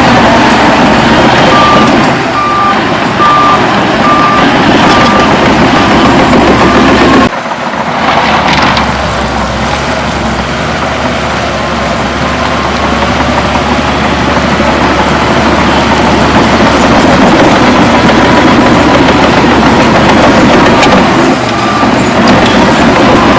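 Heavy diesel earthmoving machinery running loudly, with a reversing alarm beeping at about one and a half beeps a second twice: early on for several seconds and again near the end. The sound breaks off sharply about seven seconds in and resumes.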